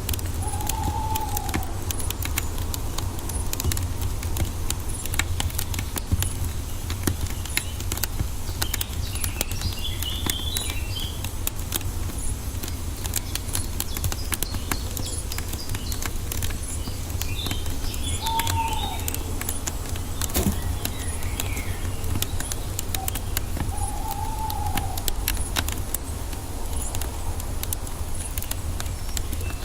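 Wood fire crackling with dense sharp pops over a low steady rumble. Birds call over it: a short arched whistled note three times, and bursts of higher chirps in between.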